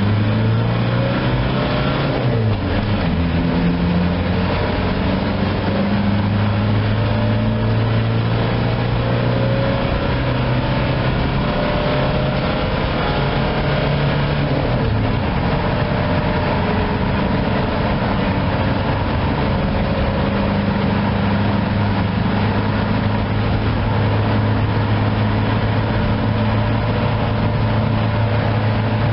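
VW T3's 1.7-litre KY four-cylinder diesel engine pulling under full-throttle acceleration, its pitch climbing slowly through the gears. A gear change comes about two seconds in and another about halfway through, after which it climbs only slowly.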